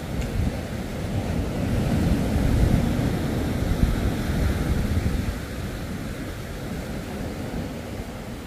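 Ocean surf with wind buffeting the microphone, a low rushing noise that swells louder for a few seconds in the middle and then eases.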